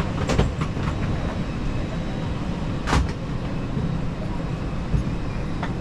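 Steady low hum inside an Airbus A320 cabin waiting at the gate, with a few sharp clicks or knocks, the loudest about three seconds in.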